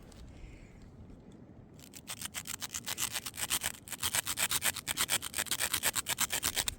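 Rapid, even scraping or rubbing strokes, about nine a second, starting about two seconds in and getting louder.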